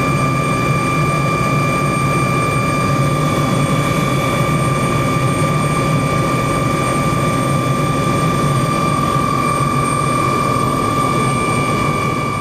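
Helicopter in flight, running steadily: a constant rumble with a steady high whine over it.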